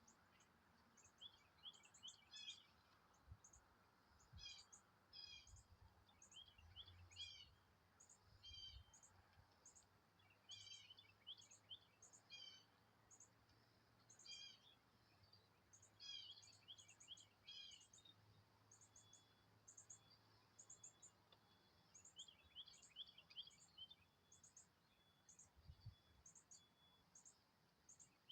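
Faint songbird chirping and singing: short high notes repeat steadily, with quick trilled phrases in between.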